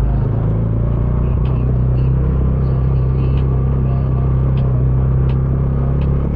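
Bajaj Dominar 400's single-cylinder engine running through its stock exhaust at a steady pace on the move. Scattered light clicks sound over it.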